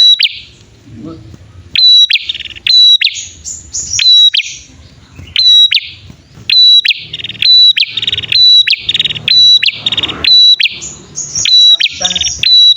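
Prenjak (prinia) lure recording of a male and female calling: a rapid series of sharp, high chirps, about two or three a second, broken by buzzy, rattling trills.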